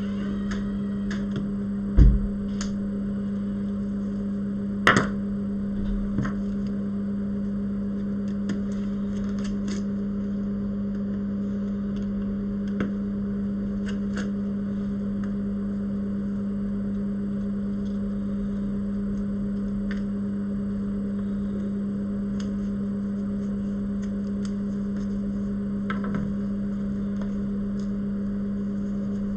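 Steady low electrical hum from bench repair equipment, with scattered light taps and clicks of tools on the workbench. There are sharper knocks about two seconds and five seconds in.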